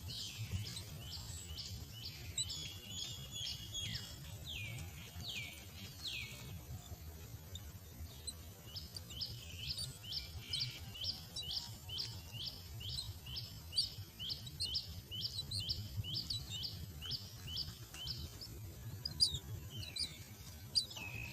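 Myna chicks begging at the nest: long runs of short, high, downward-slurred calls, about three a second, breaking off for a couple of seconds midway before starting again.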